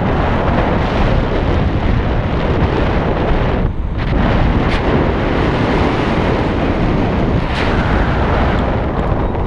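Loud wind rushing over the microphone while riding a motorcycle at speed, with the steady noise of the bike under it and a brief lull a little before the middle.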